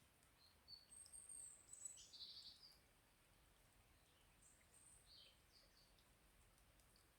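Faint songbird chirps and whistles: a short high run about a second in, and a few more calls around the middle.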